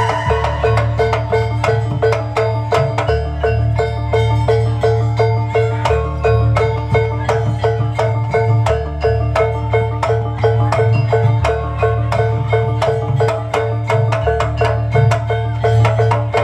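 Javanese gamelan ensemble playing jaranan music: metallophones struck in a fast, even rhythm over deep bass notes.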